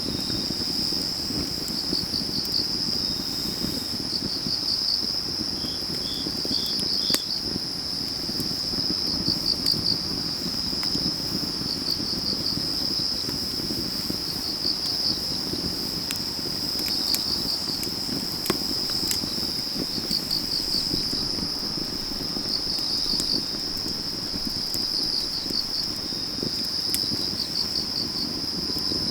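Autumn crickets singing in a steady high trill, with groups of pulsed chirps repeating every couple of seconds, over a wood fire burning with a low rush and a few sharp crackles.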